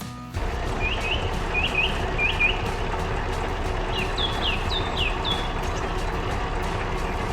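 A heavy machine's engine starts running about half a second in and runs steadily and loudly. Over it come bird chirps: three quick pairs of short upward chirps, then a few higher falling chirps about four seconds in.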